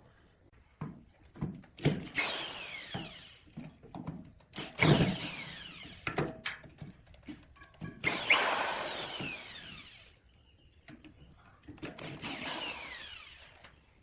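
Power drill working wood in four short bursts. Each burst dies away in a falling whine as the bit spins down, with short knocks between them.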